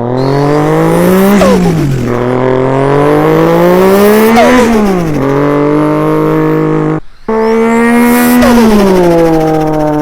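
Vocal impression of a car engine accelerating through the gears: the pitch climbs, drops sharply at each shift and climbs again, several times over, with a short break about seven seconds in.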